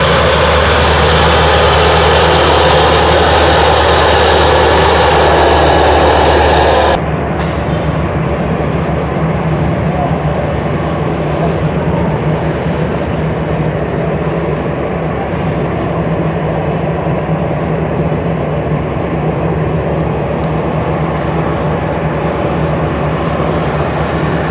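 Heavy diesel engines of a tipper truck and road paver running steadily with a fast, even pulse. For the first seven seconds a louder rushing noise lies over the engine hum, and it cuts off abruptly.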